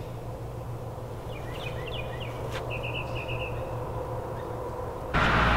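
Small birds chirping, a few separate chirps and then a quick trill, over a steady low outdoor hum. Near the end a much louder rush of noise cuts in suddenly.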